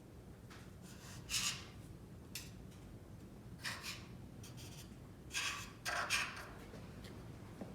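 A handful of short scraping strokes at uneven intervals, a hand tool worked against a metal lathe part.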